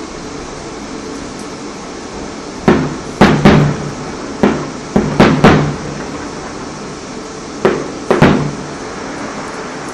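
Fireworks going off outside, heard indoors as sharp pops and bangs in three clusters: about three starting near three seconds in, four more around five seconds, and two near the end.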